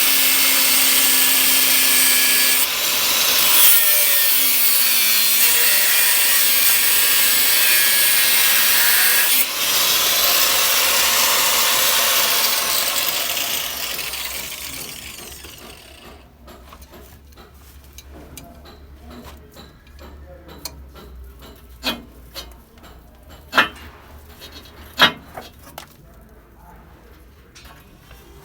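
Angle grinder with a cutting disc running steadily through old galvanised iron pipe, with two brief dips. The cutting winds down and stops about halfway through, followed by a few sharp knocks.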